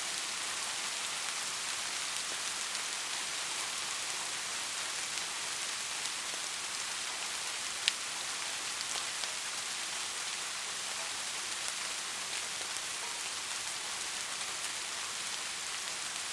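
Steady rain falling on a surface, an even patter of many drops, with one sharper drop or tap about halfway through.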